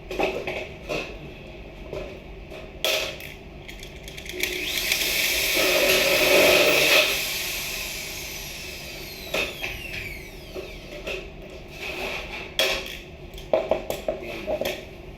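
Scattered knocks and clicks of tool work on building material. In the middle a louder rushing noise swells up over a few seconds and fades away.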